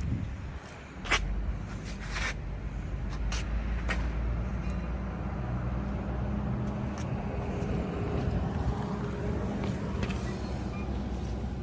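Diesel engine of a high-pressure washer running steadily, with a few sharp clicks in the first four seconds.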